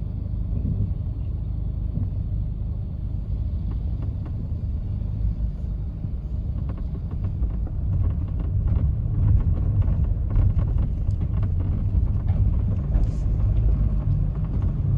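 Road noise inside a moving vehicle: a steady low rumble of engine and tyres, with light clicks and rattles scattered through the second half.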